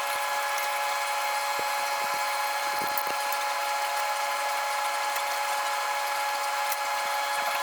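A power tool's motor running at a steady speed, giving an even, high whine that holds the same pitch throughout.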